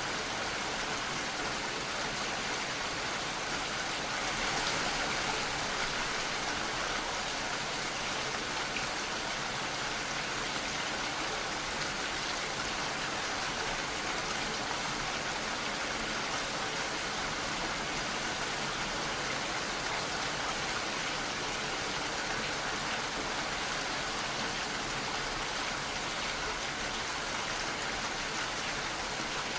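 Steady rain falling, an even hiss that swells slightly about four seconds in.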